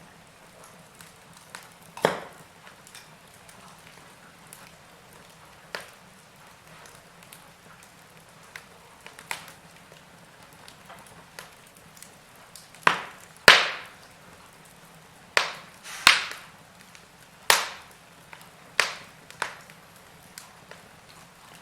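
Wood fire in a fireplace crackling over a faint steady hiss, with sharp pops at irregular intervals, a run of louder pops in the second half.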